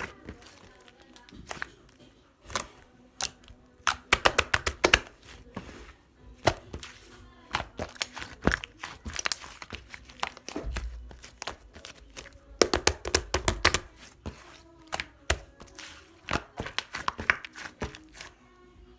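Cloud slime being handled: squeezed, stretched and poked, giving clusters of crackly clicks and soft tearing sounds, with a couple of dull thumps about halfway through.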